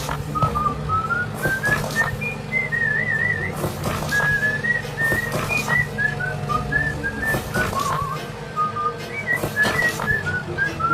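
Background music carried by a whistled tune that steps from note to note with a few quick trills, over a steady low hum.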